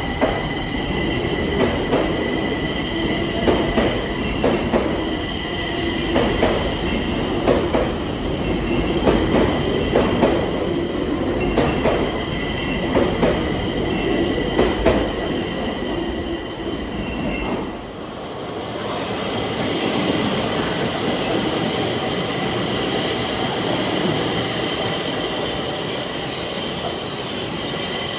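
Stockholm Metro train running on the rails, with a steady high whine and a series of knocks from the wheels over rail joints. About two-thirds of the way through, the sound changes abruptly to a smoother, steadier run.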